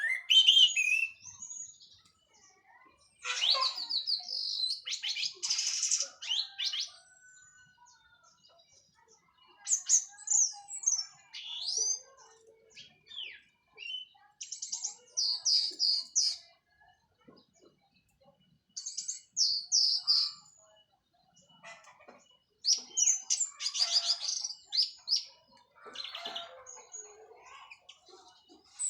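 Orange-headed thrush (anis merah), just out of its moult, singing loose bursts of varied phrases: rapid trills, quick upsweeps and clear whistles, with short pauses between bursts.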